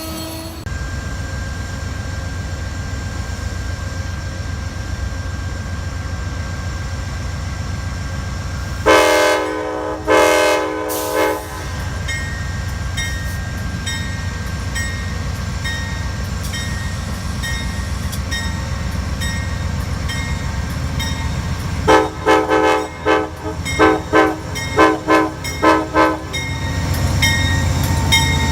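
Train horn: two blasts of about a second each, then a quick run of about eight short toots. A train rumbles steadily under it.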